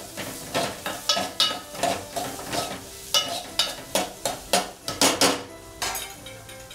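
A spoon stirring and scraping frying onions and spices in a metal pot, knocking against the pot two to three times a second over a frying sizzle; the clanks stop near the end.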